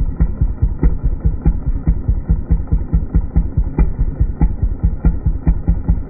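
An engine idling with an even beat of about six pulses a second.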